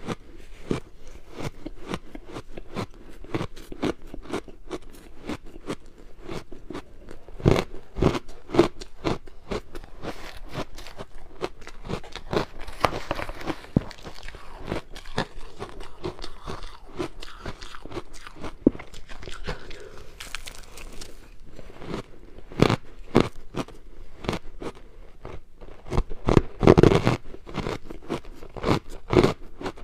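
Ice being bitten and chewed: a dense, continuous crunching and crackling of ice breaking between the teeth, with a few louder bites, the biggest cluster near the end.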